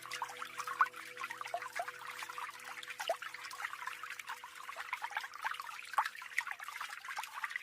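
Small waterfall on a mountain stream, splashing and trickling with many small droplet splashes, much like a fountain. Soft held background music tones fade away in the first few seconds.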